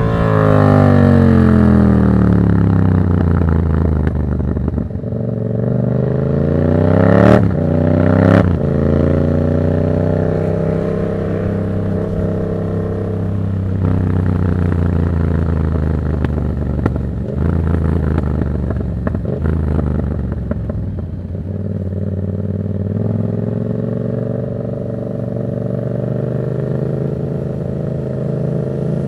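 Yamaha MT-07's parallel-twin engine through an aftermarket Black Widow exhaust with no dB killer, ridden on the road. The revs fall away at the start, climb again with two quick gear changes around seven and eight seconds in, then the bike cruises at fairly steady revs.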